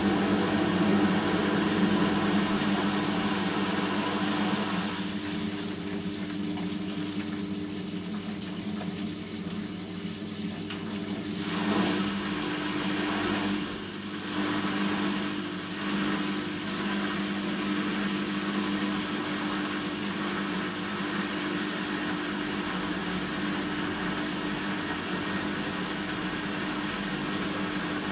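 Bosch washing machine running a synthetics 40 °C cycle: a steady machine hum with water swishing that rises and falls a few times.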